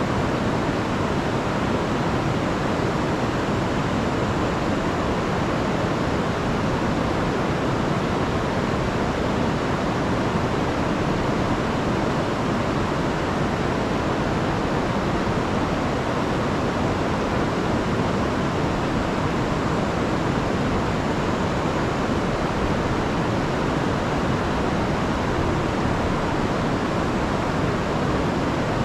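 Rain-swollen river rushing steadily over falls, a loud even roar of water.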